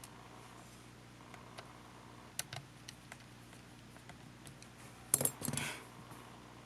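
Small clicks and taps of tools and small plastic or metal parts being handled while a compact camcorder is taken apart. There is a louder cluster of clicks with a short scrape about five seconds in.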